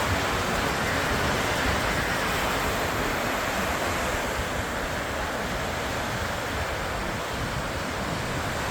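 Red Sea surf washing onto the shore: a steady hiss of waves, with wind rumbling on the microphone.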